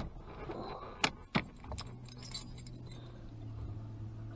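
Car keys jangling, with a few sharp clicks as the key goes into the ignition and is turned, followed by a steady low hum for about three seconds.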